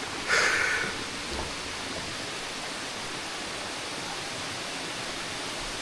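Waterfall rushing steadily, with one brief louder sound about half a second in.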